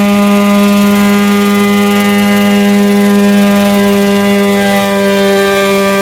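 Homemade coaxial helicopter's engine and rotors running at a steady speed, a loud even drone with a strong low hum.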